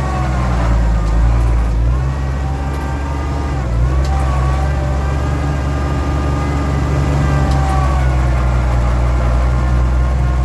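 Oliver 1650 tractor engine running with a steady whine from the loader hydraulics; the whine and engine dip briefly in pitch twice, about two and four seconds in. The whine is put down by the owner to the cold (below 30 degrees) and to the hydraulic oil being a little low.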